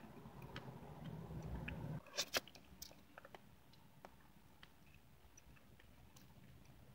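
Closed-mouth chewing of a mouthful of pineapple pie, with small wet clicks and smacks. Two sharp, louder clicks come about two seconds in.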